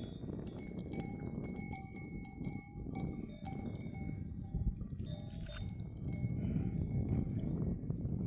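Metal bells on a moving flock of livestock, clinking and ringing irregularly with many overlapping notes, over a low shuffling rumble of the animals.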